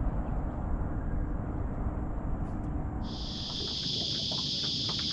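Steady low rumbling noise, then about three seconds in a high, steady buzz of cicadas starts abruptly and keeps going.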